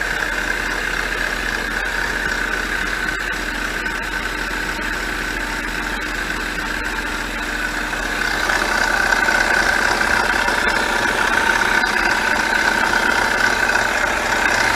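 Honda Accord engine idling steadily through an exhaust with a gutted catalytic converter, having just been started after a valve cover gasket replacement. About eight seconds in it gets a little louder and changes tone.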